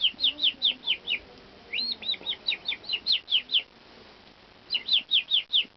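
A person whistling a bird-like chirping call, each short note cut off by closing the lips. Rapid runs of high chirps, most sliding downward, about five a second, with a pause of about a second between runs.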